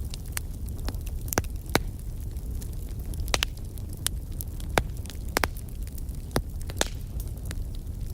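Wood fire burning with a steady low roar and irregular sharp crackles and pops.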